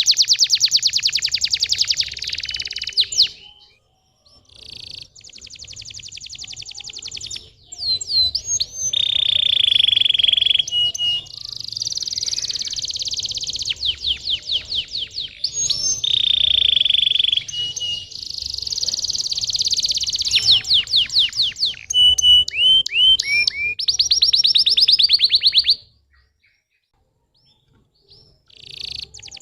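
Domestic canary singing a long song of fast trills, sweeping whistled notes and buzzy rolled phrases. The song stops about 26 seconds in, with a short phrase again near the end.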